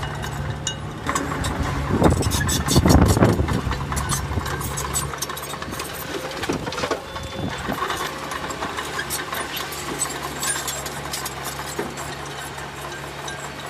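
Heavy diesel engine of earthmoving equipment running steadily, with a louder low rumble for about a second and a half, starting about two seconds in, and scattered short knocks and clanks.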